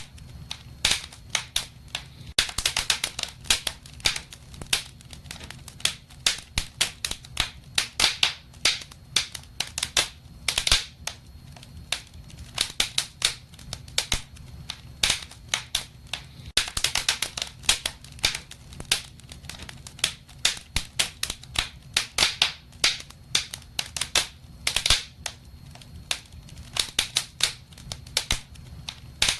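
Wood fire in a fireplace crackling: irregular sharp pops and snaps, often in quick clusters, over a faint low rumble.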